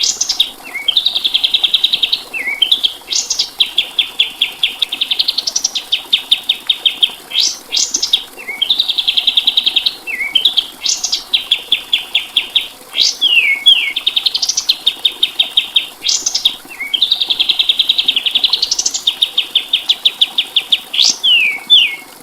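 Kapas tembak songbird singing a repeated song: each phrase is a fast, buzzy trill of rapid notes that climbs into a sharp upward whistle, repeated about every three seconds, with short downward slurs between phrases. This is a masteran tutoring recording, played so that other songbirds learn the song.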